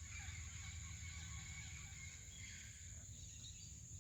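Faint chirping and warbling bird song, mostly in the first three seconds, over a steady high-pitched insect drone and a low hum.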